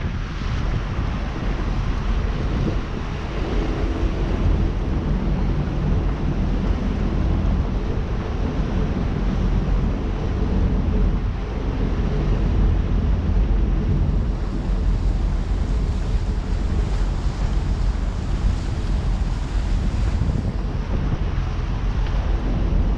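Wind buffeting the microphone over the steady drone of a trawler's engine underway.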